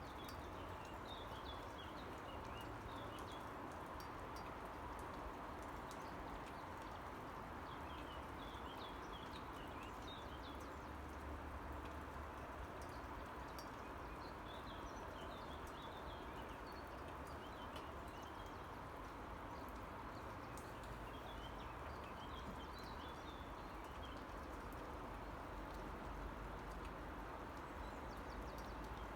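Steady rain falling, with scattered drop ticks, and a songbird singing short bursts of high chirps every few seconds.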